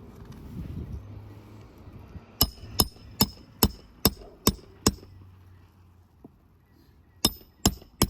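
Hammer driving roofing nails into asphalt shingles: a quick run of seven sharp strikes, a pause, then three more near the end.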